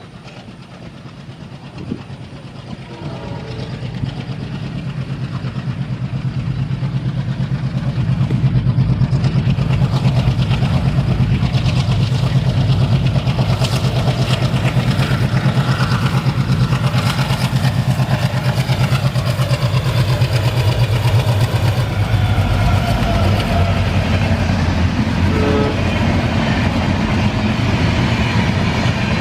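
ALCO-engined WDM3A diesel locomotive approaching with a train, its low engine throb growing louder over the first several seconds, then staying loud and steady with rapid rail clatter.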